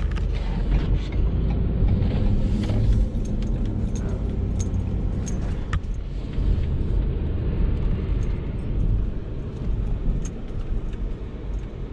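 Plow truck driving, with a steady engine and road rumble and scattered light clicks and rattles.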